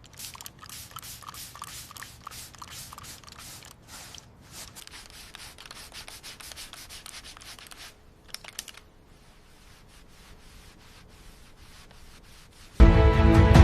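Sanding by hand, rhythmic back-and-forth strokes about four a second, going faint after about eight seconds. Loud music comes in near the end.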